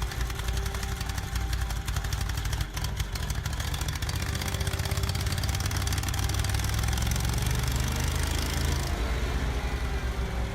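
Engine of a heavy machine running steadily, with a rapid even pulsing; the high hiss above it drops away near the end.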